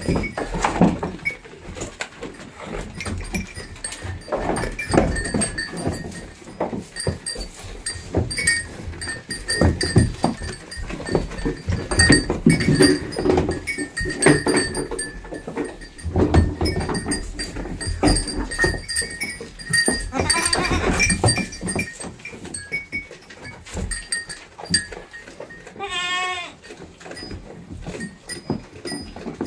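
Goat bleating, including a wavering call near the end, among repeated knocks and rustling.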